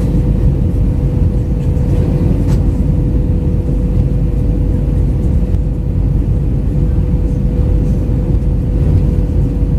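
Steady cabin noise inside an Airbus A319: a loud, even low rumble of engines and airflow with a steady hum just under 500 Hz.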